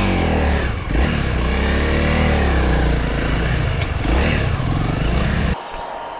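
Honda CRF300L dirt bike's single-cylinder four-stroke engine revving up and down several times under throttle, then cutting off suddenly near the end.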